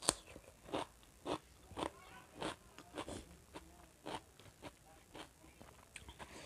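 A person biting into a raw cucumber slice, with a sharp crunch right at the start, then chewing it with crisp crunches at about two a second, close to the microphone.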